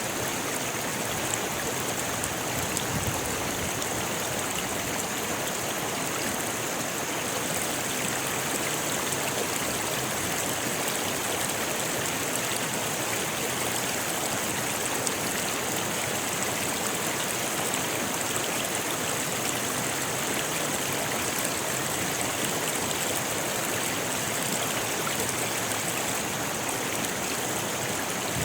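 Rocky river flowing steadily, water rushing and splashing over stones in an even, continuous wash.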